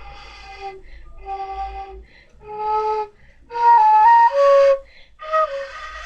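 Danso, the Korean notched vertical flute, blown in a string of short breathy notes as a beginner practises making a tone. The loudest notes come around the middle, higher, with small steps in pitch, and a lower note follows.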